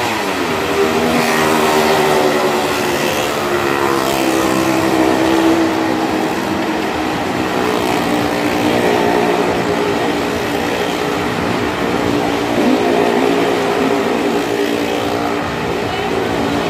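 Engines of two small cars driven round the vertical wall of a Well of Death, running steadily at high revs, their pitches overlapping and wavering slightly.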